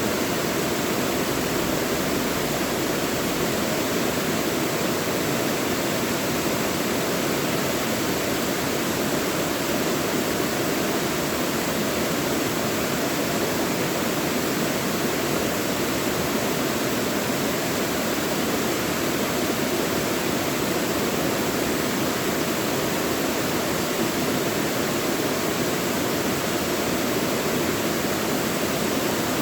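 Mountain valley stream rushing and splashing over rocks: a steady, unbroken flow of water.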